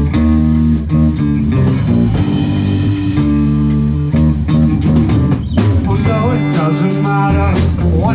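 Live rock band playing an instrumental passage: electric guitar and bass over a drum kit keeping a steady beat. In the second half a lead guitar line comes forward with bent, sliding notes.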